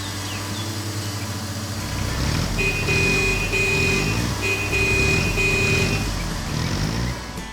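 Vehicle engine sound effect running, with a string of about six short beeps in the middle, like a reversing alarm.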